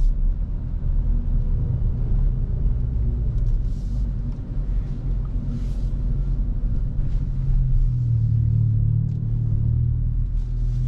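Hyundai i20 N's 1.6-litre turbocharged four-cylinder engine and exhaust droning at fairly steady revs while driving, with a deep road rumble beneath.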